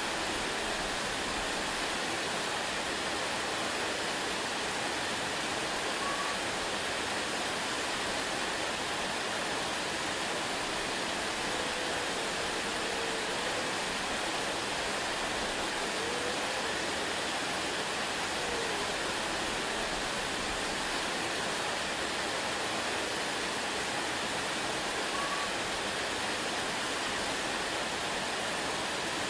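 Waterfall: steady, even rush of falling water without a break, with a few faint short whistled notes now and then.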